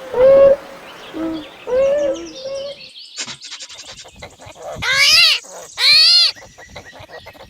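Beaver vocalizing: a string of short, pitched whining calls, then two louder calls that rise and fall in pitch in the second half.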